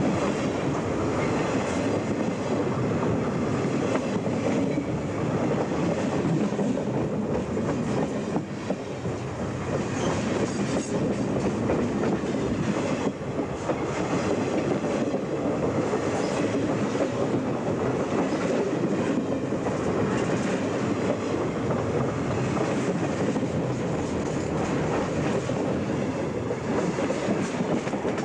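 CSX freight train's cars rolling over a camera set between the rails: a steady, dense rumble with continual clatter of steel wheels and trucks on the rail, heard from right beneath the cars.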